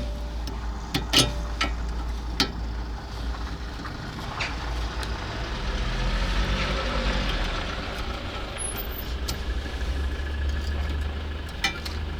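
Metal knocks and clinks of tools and parts while a car's steering knuckle is being unbolted and removed from the front suspension, a few separate sharp strikes over a steady low hum.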